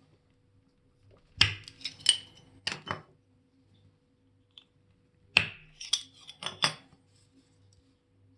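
Small metal tools and watch parts clicking and clinking in two short flurries of a few strikes each, about a second and a half in and again about five seconds in.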